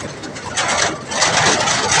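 A vehicle engine running with rough, noisy road and wind sound, getting louder about a second in.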